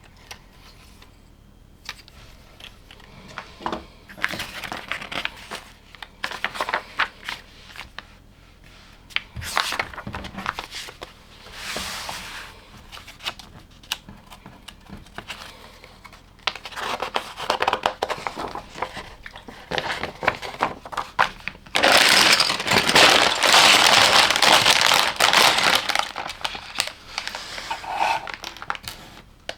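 Plastic LEGO pieces clicking and rustling as they are handled, then, about two-thirds of the way through, a long stretch of steady crinkling like a plastic parts bag being opened and its pieces shaken out.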